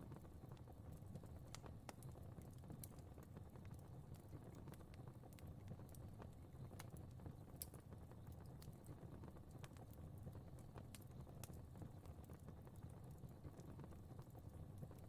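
Fire crackling faintly: irregular small pops and snaps over a steady low rumble of burning.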